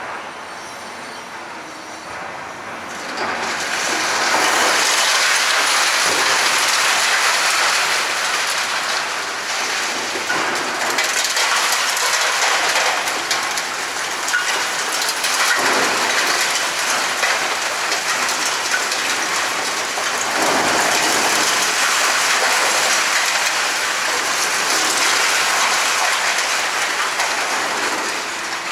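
Building demolition: a continuous crackling, rattling din of concrete breaking up and debris falling, swelling loud about three seconds in.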